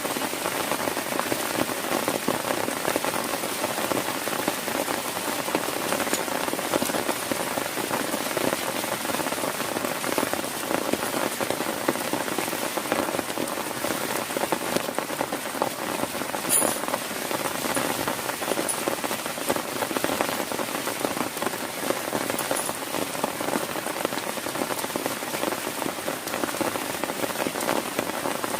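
Heavy rain falling steadily, a dense, even downpour of drops striking a surface.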